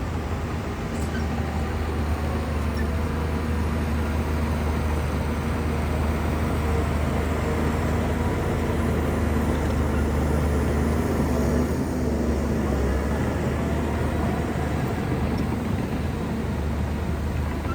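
Shantui bulldozer's diesel engine running steadily as a low rumble, swelling slightly about ten seconds in and easing again a couple of seconds later.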